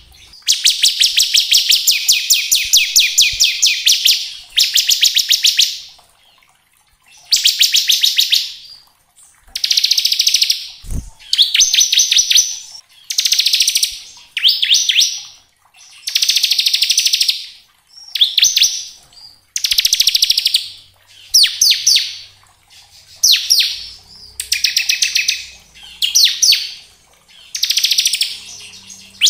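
Bar-winged prinia (ciblek) singing its rapid rattling 'ngebren' trill: a loud run of high buzzy trills, each one to three seconds long, broken by short pauses.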